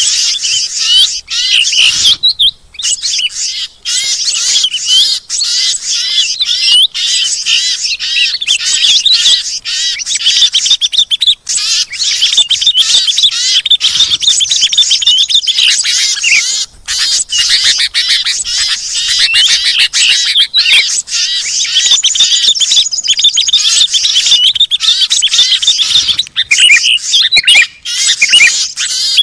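A dense, loud chorus of many small songbirds chirping and trilling rapidly over one another, with a few brief gaps. It is a mixed-species 'burung ribut' bird-lure recording, used to call wary small birds down.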